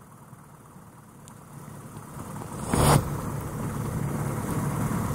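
Single-engine piston engine of a Grumman light aircraft running at taxi power, growing louder over the second half. A short loud knock or bump cuts through about three seconds in.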